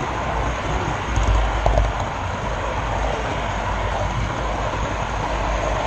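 Model railroad camera car rolling along the track, heard from the GoPro riding on it: a steady rumble and rattle of small wheels on rail, with an occasional faint click.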